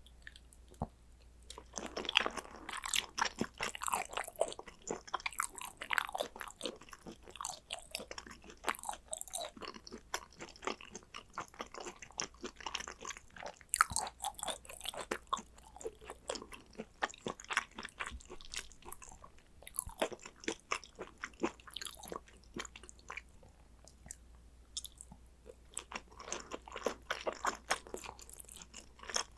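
Close-miked chewing and biting of food: dense, irregular clicks and wet mouth noises, starting about two seconds in and easing off briefly past the two-thirds mark before picking up again.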